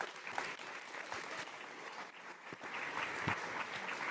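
Audience applauding, many hands clapping steadily and swelling slightly near the end.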